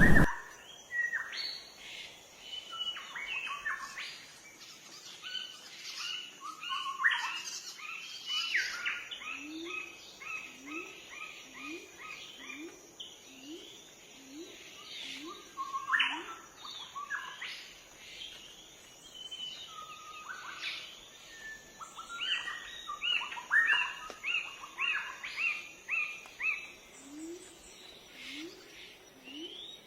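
Several songbirds singing and chirping, with quick runs of repeated notes. Behind them, from about a third of the way in, a low note that rises in pitch is repeated about once a second.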